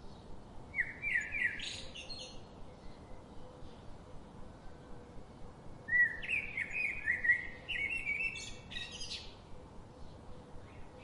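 Songbirds singing: a short phrase of quick chirping notes about a second in, and a longer, louder phrase of rapid chirps about six seconds in, over a faint steady hiss.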